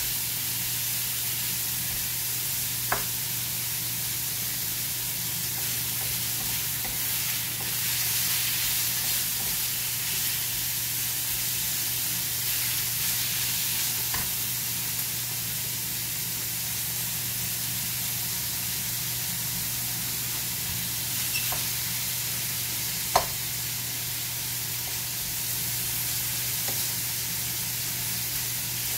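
Sliced meat sizzling as it fries in a frying pan, stirred with a wooden spatula. A few sharp clicks of the spatula against the pan, the loudest about 23 seconds in.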